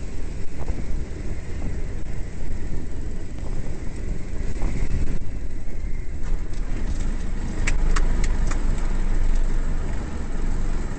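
Steady low rumble of a light aircraft in motion, engine and wind noise on the microphone, with a few sharp clicks about eight seconds in.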